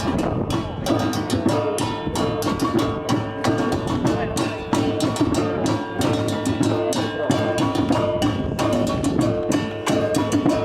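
Percussion music: a fast, steady drum beat of about five or six strikes a second, over sustained ringing tones.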